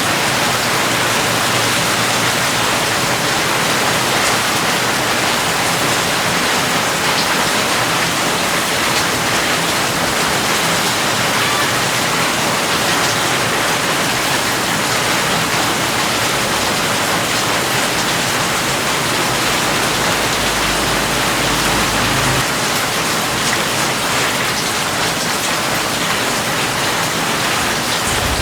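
Steady heavy rain falling, an even dense hiss of drops with a faint low rumble about three-quarters of the way through.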